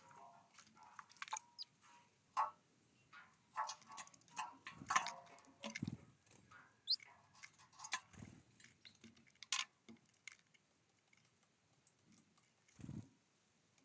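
Small birds at a feeder pecking and cracking seeds: irregular sharp taps and clicks, with a short rising chirp about seven seconds in and a few low thumps.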